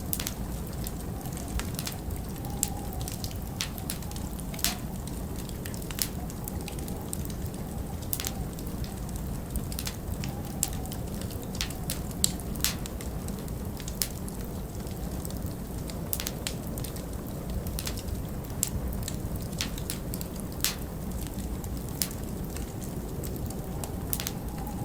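Wood fire crackling, with scattered sharp pops over a steady low rumble of winter wind.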